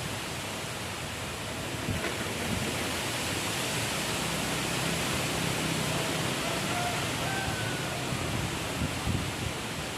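Strong wind blowing steadily, a continuous rushing noise with low buffeting rumble.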